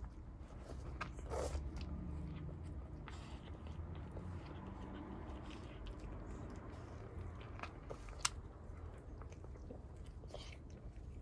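Kittens chewing food: a string of small irregular clicks while they eat, with one sharper click a little after eight seconds in.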